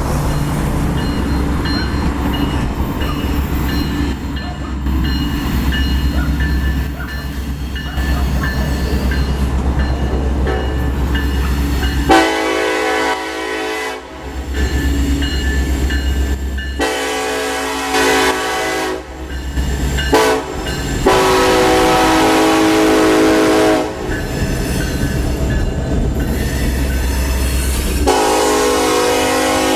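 Diesel freight locomotive passing with a deep, steady engine rumble. Its air horn then sounds a chord in two long blasts, a short one and a long one: the standard grade-crossing warning. Another long blast follows near the end.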